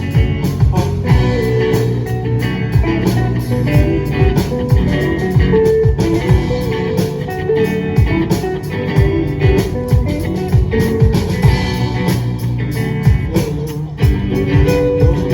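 A live rock band playing: guitars over bass guitar and a drum kit keeping a steady beat.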